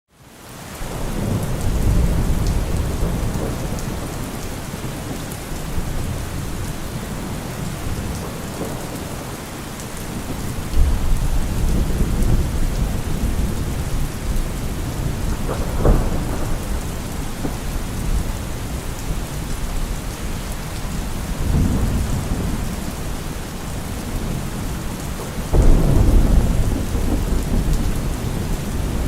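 Steady rain falling through a thunderstorm, fading in at the start, with low rolling rumbles of thunder swelling several times. A sharper crack comes about halfway through, and the loudest rumble comes near the end.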